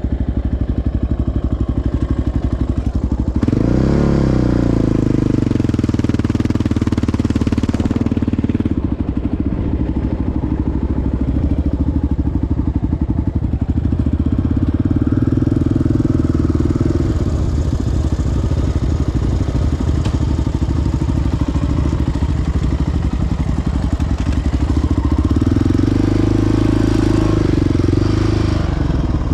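Single-cylinder four-stroke quad (ATV) engine running under way, revving up sharply about three and a half seconds in, then running steadily, with another rise in revs near the end.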